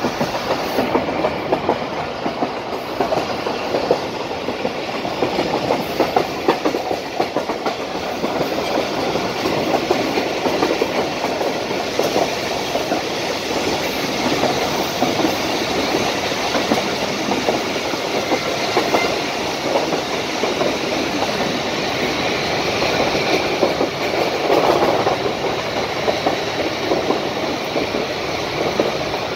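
Khyber Mail passenger train running along the track, heard from on board: a steady rumble of the coaches with a continuous rapid clicking and clattering of the wheels over rail joints and points.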